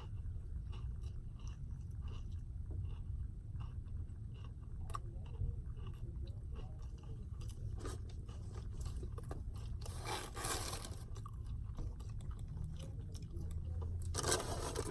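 A person chewing and crunching a mouthful of fried chicken sandwich, with small wet mouth clicks. There are noisier crunches about ten seconds in and near the end, over a steady low hum.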